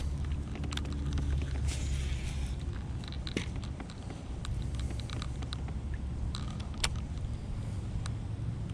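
Wind rumbling on the microphone, with scattered small clicks and rattles of handled gear.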